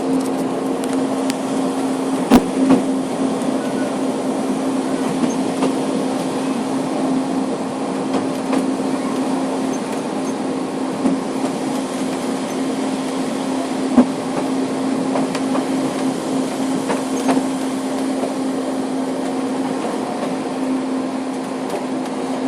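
Snowdon Mountain Railway rack-and-pinion train climbing, heard from inside the carriage: a steady running drone with a constant hum, broken by a few sharp knocks about two seconds in and again midway.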